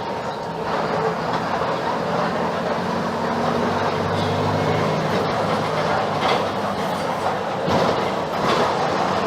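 Mercedes-Benz OF-1721 BlueTec 5 city bus under way, heard inside the cabin: the front-mounted six-cylinder diesel runs with its note rising a little in the middle, over steady road noise and body rattle that grows louder near the end.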